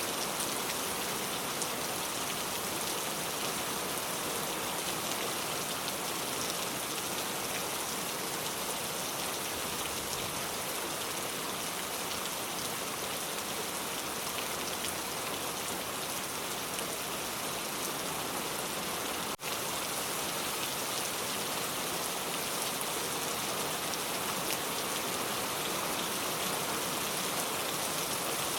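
Steady rain falling, a dense, even patter of drops, with a momentary break about two-thirds of the way through.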